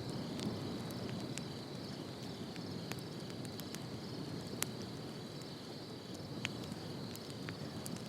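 Outdoor ambience of insects trilling steadily, a continuous high chirring, over a low background rumble, with a few faint scattered clicks.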